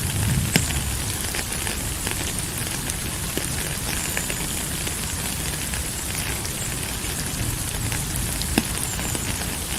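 Steady rain falling, a dense patter of drops with a couple of sharper drip clicks, one about half a second in and one near the end.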